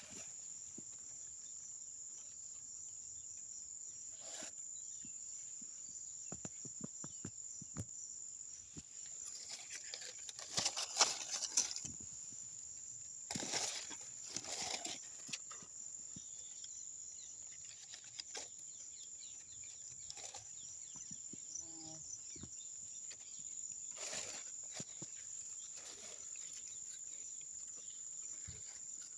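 Insects shrilling steadily on one high note, with scattered clicks and rustles and a few louder rustling bursts in the middle.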